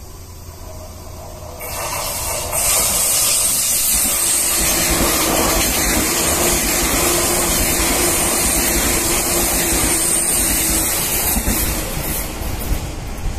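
Six-car Seibu 2000 series electric commuter train running past close by: the rush and rumble of the passing cars swells about two seconds in, holds steady with a faint hum, and fades near the end as the train goes away.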